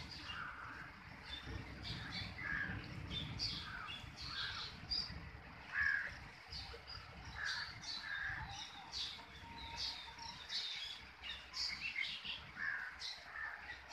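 Birds calling: many short calls, a few each second, some crow-like caws among higher chirps, over a low, uneven rumble.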